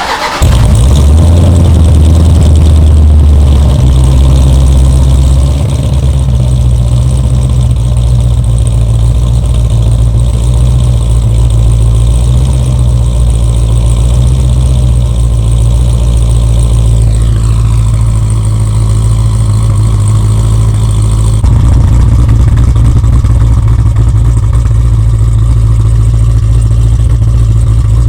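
Jeep Grand Cherokee SRT's 6.4-litre Hemi V8, fitted with Stainless Works headers and exhaust, firing up on a cold start and running at a loud fast idle. The idle eases down a little about four seconds in.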